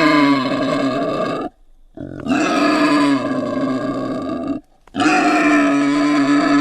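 Creature vocal sound effect for Pepita, the winged jaguar: long, steady-pitched animal calls. The first ends about one and a half seconds in, a second runs from about two to four and a half seconds, and a third starts about five seconds in.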